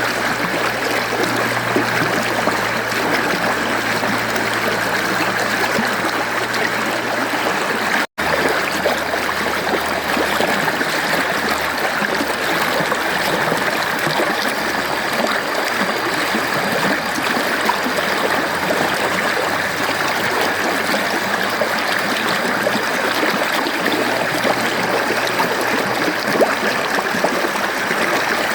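Mountain stream water flowing steadily, an even rush with trickling and gurgling. A split-second gap in the sound about eight seconds in.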